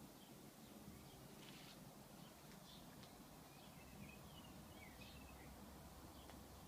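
Near silence: quiet outdoor background with a few faint bird chirps, mostly around the middle.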